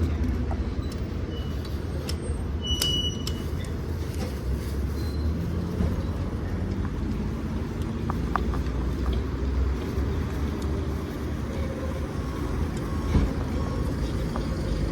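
A low, steady engine rumble that eases after the first few seconds, with general road noise and a few short high beeps.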